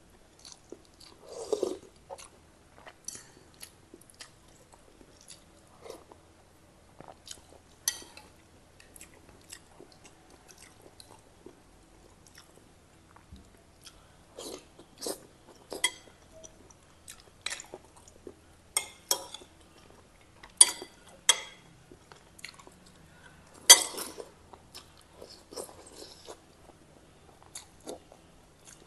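Close-miked chewing and crunching of water spinach stems and fish, in short irregular crunches with one loud crunch about two-thirds of the way through. A slurp of sour broth from a spoon comes near the start.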